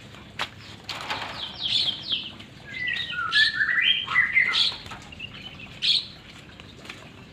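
White-rumped shama giving a run of short whistled notes and falling chirps, with a couple of sharp clicks before it and one more chirp near the end.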